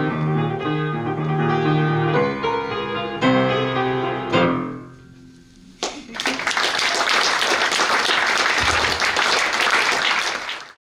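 A piano piece ends on a final chord that rings out and fades, then the audience applauds until the sound cuts off abruptly near the end.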